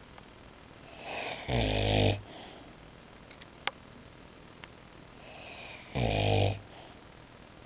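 Boxer dog snoring in deep sleep: two loud snores about four and a half seconds apart, each rising from a softer start into a short buzzing stretch. A single faint click falls between them.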